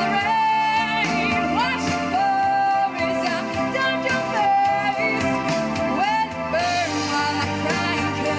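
A female singer holding long, wavering notes with slides between pitches, over a continuous instrumental accompaniment.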